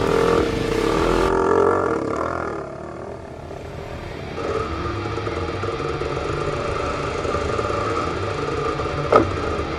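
Enduro dirt bike engine running, its pitch shifting in the first couple of seconds, then holding a steady note from about halfway through. One sharp knock near the end.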